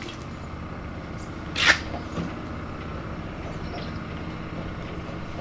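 Steady low machine hum, with one short sharp clack about a second and a half in and a softer knock just after.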